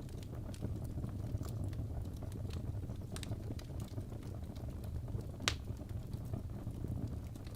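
Wood fire burning in a fireplace: a steady low rumble of flames with frequent small crackles and pops from the burning logs, one sharper pop about five and a half seconds in.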